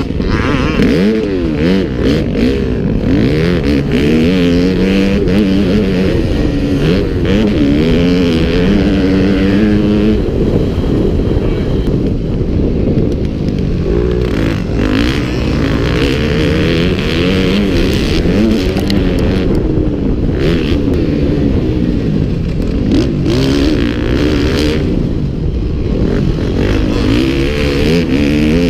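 Several motocross bikes racing, their engines revving up and down through the gears with the pitches overlapping continuously.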